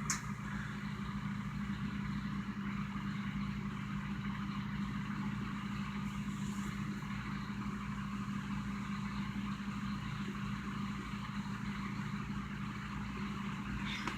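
Microwave oven running on high: a steady hum with a strong low tone and a faint hiss above it.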